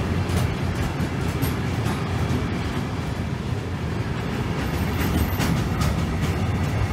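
Freight train of flat wagons carrying open-top bulk containers rolling past at close range: a steady low rumble of wheels on rail, with repeated clicks as the wheels cross rail joints, more of them near the end.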